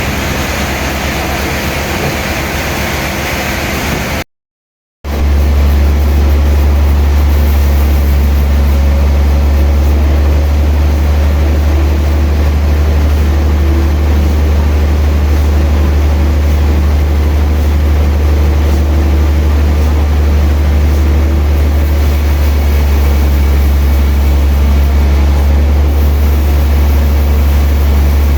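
Sawmill machinery running with a loud, steady low hum. The sound drops out for under a second about four seconds in, then comes back louder and even.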